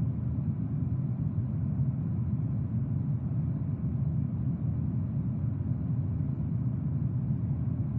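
Steady low rumble of jet aircraft engines in flight, even throughout with no breaks.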